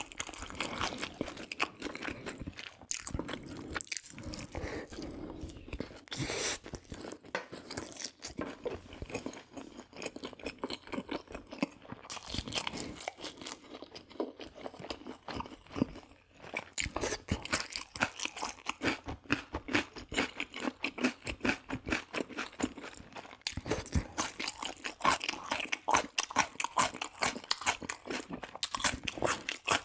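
Close-miked crunching and chewing of crispy fried food, many irregular bites and chews with a brief pause about halfway through.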